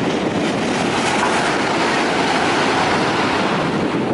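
c2c Class 357 Electrostar electric train running along the track, with wheel-on-rail rumble and clatter that swells to its loudest about midway through and eases slightly near the end.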